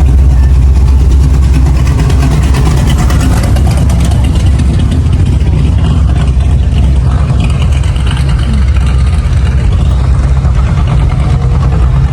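A car engine running close by, a deep steady rumble with a fast even pulse.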